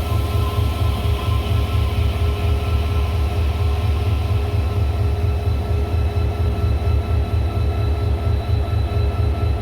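Train at a railway station running with a steady low rumble and a constant electrical hum, with no change in loudness.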